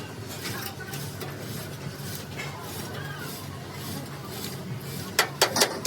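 Metal clinking and tapping over a steady low hum, with a few loud sharp knocks near the end.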